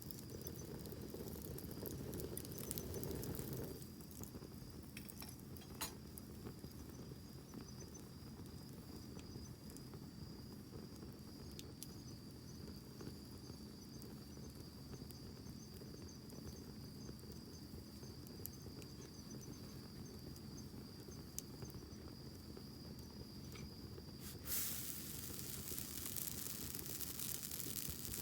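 Wood campfire crackling, with scattered sharp pops, under a steady high insect trill. Near the end a broad hiss comes in and keeps on.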